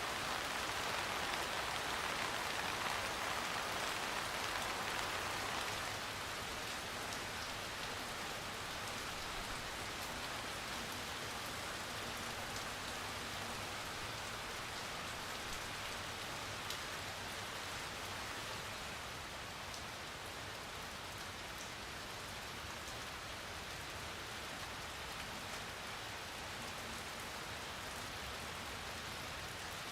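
Steady rain falling: an even hiss with scattered drop taps, easing slightly about six seconds in.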